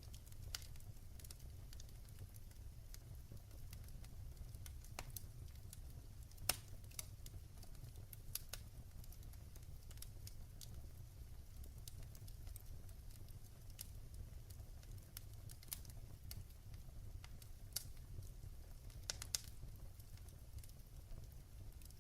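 Wood fire in a fireplace crackling: irregular small pops and a few louder snaps over a steady low rumble.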